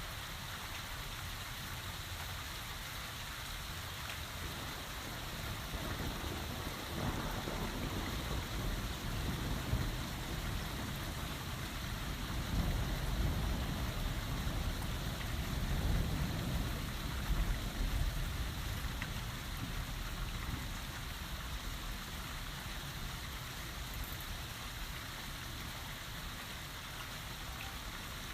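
Heavy rain falling steadily, with a low rumble of rolling thunder that swells about a fifth of the way in, peaks in the middle, and dies away well before the end.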